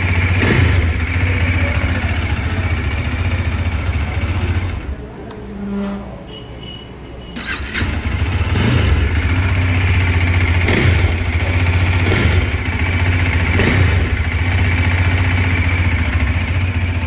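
Single-cylinder 373 cc motorcycle engine idling, with several short throttle blips that rise and fall. The sound drops away for a couple of seconds about five seconds in, then the engine comes back and is blipped again a few times.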